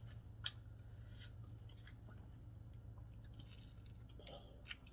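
Faint eating sounds: chewing, with a few short clicks of crab-leg shell being picked, over a steady low hum.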